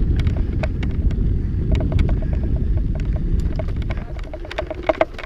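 Mountain bike riding over rough trail: wind buffeting the camera microphone with a steady rumble, and many sharp clicks and rattles from the bike. The rumble dies down about four seconds in as the bike slows.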